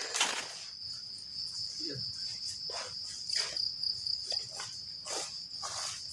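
Crickets chirring in a steady high-pitched drone, with a few soft rustles or steps over it.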